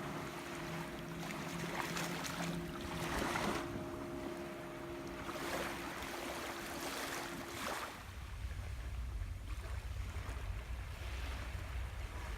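Surf washing onto the beach, swelling twice, with a faint steady hum that stops about two-thirds of the way through. After that, wind buffets the microphone with a low rumble.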